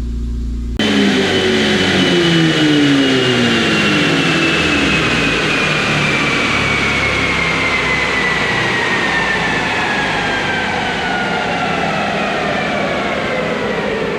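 Honda Civic Type R on a chassis dyno just after a full-throttle pull: the sound jumps in loudly under a second in, the engine's revs fall away over the next few seconds, and a thin whine from the spinning rollers and drivetrain falls slowly in pitch as everything coasts down.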